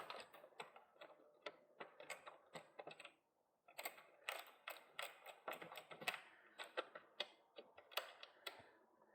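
Faint, irregular small clicks and taps, several a second, from bike parts, bolts and hand tools being handled, with a brief pause about three seconds in.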